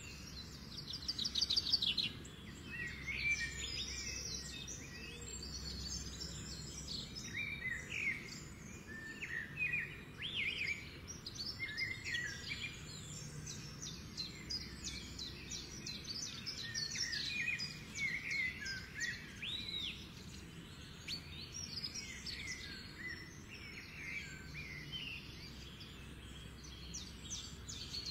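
Small birds chirping and twittering, many short calls and quick trills overlapping, over a faint low background hum.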